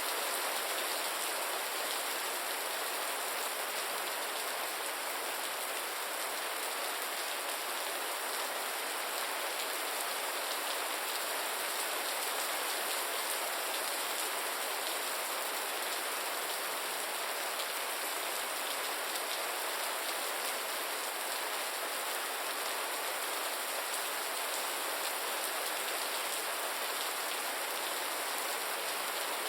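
Steady rain falling, an even hiss of drops with faint individual patters.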